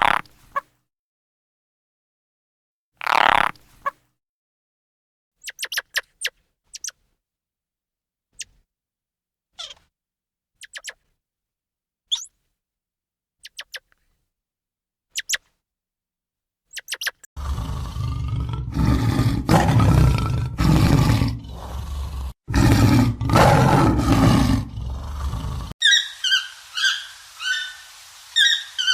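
A run of wild animal sounds: scattered short calls and thin chirps with gaps of silence, then a loud, deep roaring for about eight seconds, then a rapid series of repeated high bird calls near the end.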